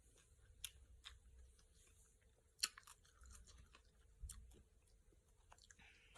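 Faint close-up chewing of cucumber salad: scattered soft crunches and wet clicks, with one sharper crunch a little over two and a half seconds in.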